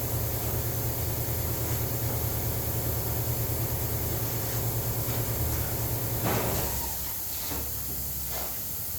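A steady low hum that fades about six seconds in, followed by a scrape and a few light knocks.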